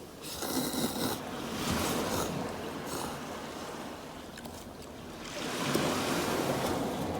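Small waves washing up onto a sandy beach, surging twice: once just after the start and again near the end. The waves are likely the wake of a passing boat.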